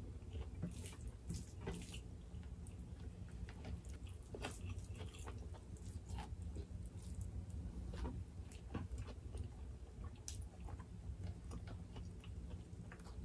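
Faint close-up chewing of people eating rice, curry and raw vegetables by hand, with scattered small mouth clicks and wet smacks over a low steady hum.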